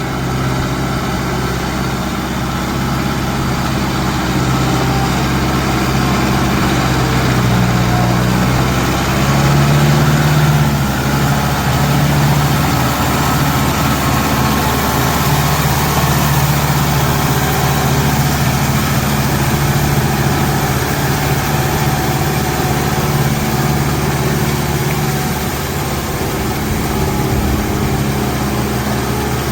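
Kubota 50 hp 4x4 tractor's diesel engine running steadily under load while working a rotavator in mud. Its pitch and loudness rise a little about eight to ten seconds in, then settle.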